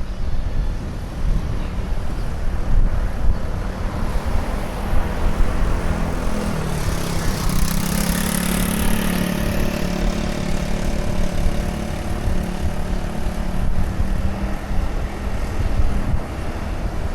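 Wind rumbling on the microphone of a moving bicycle, with a motor engine hum passing close by: its pitch dips about six seconds in, it is loudest about eight seconds in, then it fades.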